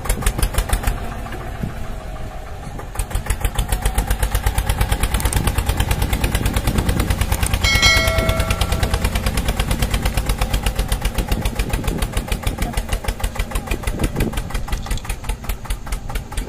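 Diesel tractor engine running with a fast, even knock. A brief horn-like tone sounds about eight seconds in.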